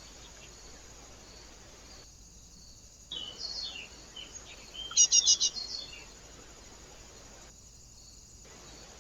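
A small bird gives sharp chirping calls: a few chirps about three seconds in, then a quick burst of loud chirps about five seconds in. Under them runs a steady hiss with faint insect chirring.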